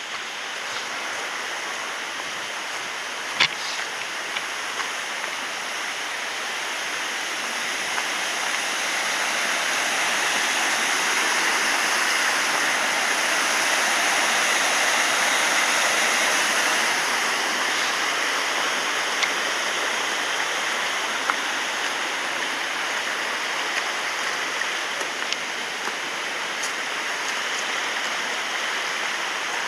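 Waterfall: a steady rush of falling water, swelling louder midway and easing off a little toward the end. A single sharp click sounds a few seconds in.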